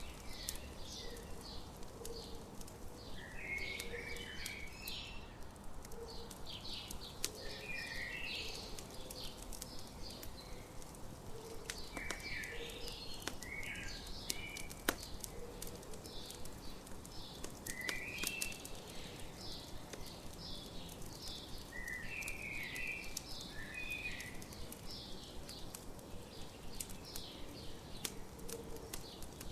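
Songbirds chirping and calling throughout, over a crackling campfire with sharp pops scattered here and there.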